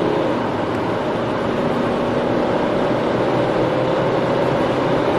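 Four-cylinder 2.0-litre turbodiesel car engine and road noise, a steady drone.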